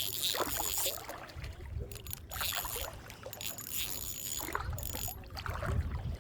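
Fishing reel being cranked to bring in a hooked fish: an uneven mechanical whirring and clicking over low handling rumble.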